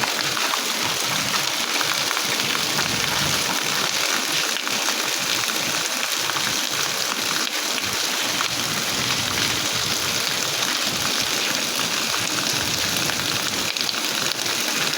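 Steady rain falling: a dense, even hiss of countless drops striking surfaces, holding at one level throughout.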